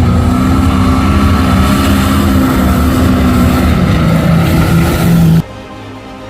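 Mud bog truck's engine running loud at high revs, its pitch dropping about four seconds in, then cutting off abruptly near the end.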